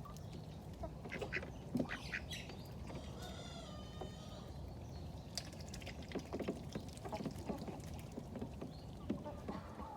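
Ducks quacking in scattered calls, with one longer drawn-out call about three seconds in.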